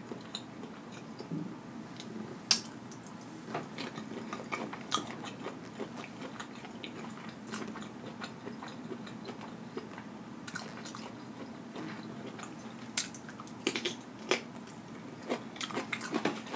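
A person chewing food close to the microphone, with wet mouth sounds and scattered sharp clicks.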